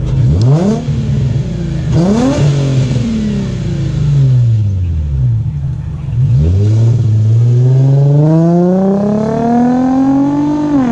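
Nissan Z car's engine revved through its competition exhaust. Two quick blips come first, the second falling away slowly; then one long rev climbs steadily for about four seconds and drops off sharply at the end.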